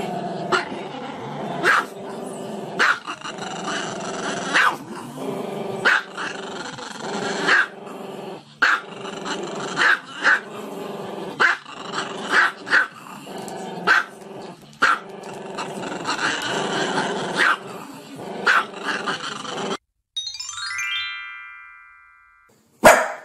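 Small long-haired chihuahua howling along with music, over steady accompaniment with a sharp accent about every second. Near the end the music and howling cut off, followed by a short descending chime and a sharp hit.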